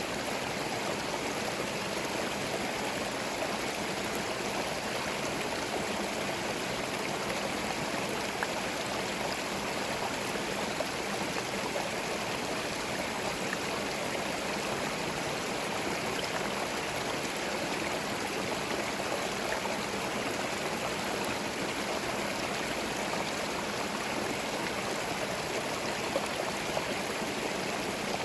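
Small forest stream flowing over stones: a steady rushing and babbling of water, with occasional tiny splashes.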